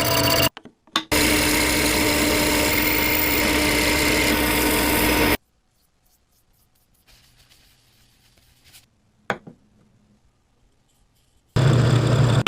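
Coffee grinder running with a steady, even noise. It cuts out briefly about half a second in, runs again for about four seconds and stops; a single click follows in the quiet, and the grinder starts again near the end.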